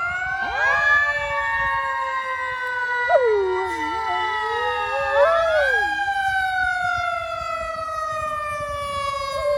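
A fire siren winds up within the first second, then slowly falls in pitch as it runs. A separate wavering call dips and rises twice in the middle of it.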